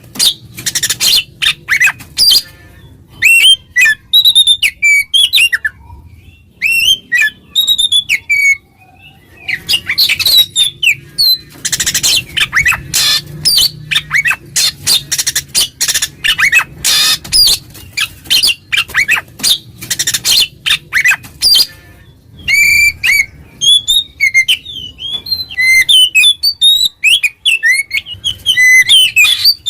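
Oriental magpie-robin (kacer) singing a loud, varied song: runs of rapid harsh chattering notes alternating with clear whistled phrases that slide up and down.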